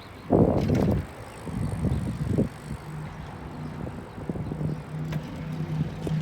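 Bicycle being ridden, with a loud low rumble about half a second in and another around two seconds, then a steady low hum.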